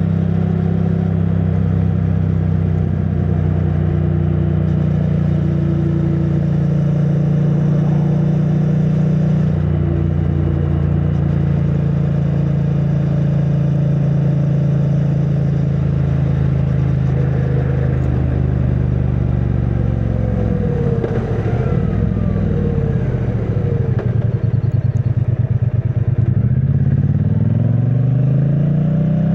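2022 Triumph Bonneville T100's 900 cc parallel-twin engine, on its stock exhaust, running at a steady speed under way. About two-thirds in the engine note drops and rises several times, then climbs near the end as the bike accelerates.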